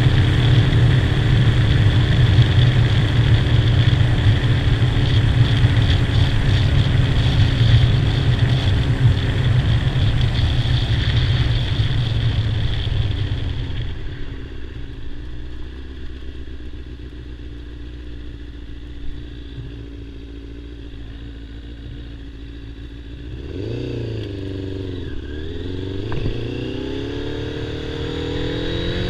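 Kawasaki ZZR600's inline-four engine running steadily at speed with a rush of wind noise, then easing off to a low, quieter run about halfway through. Near the end the revs climb, dip briefly at a gear change and climb again as the bike accelerates.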